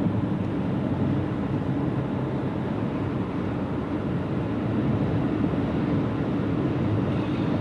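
Car engine and tyres at road speed heard from inside the cabin: a steady low rumble of driving noise.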